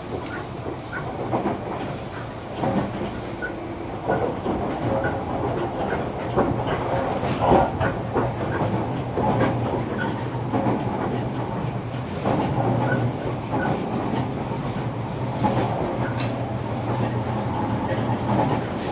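Running sound inside the motor car of a JR Kyushu 305 series electric train: a steady rumble of wheels and running gear on the rails, with scattered clicks and knocks.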